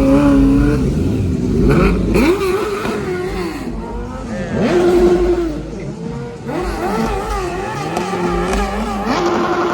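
Car engines revving over and over, the pitch climbing and dropping, with the revs held high briefly about five seconds in and again near the end.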